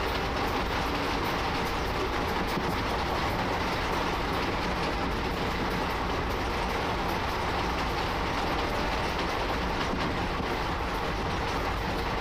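Steady running noise of an Indian Railways passenger train heard from a coach window: wheels rolling on the rails with a constant rumble and a quick, light clicking over the top.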